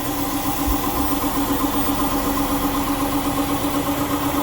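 Indesit 1400-spin washing machine running in its spin cycle, a steady machine hum with a held tone and a slight regular pulsing, as the drain pump runs to pump away the water spun out of the load.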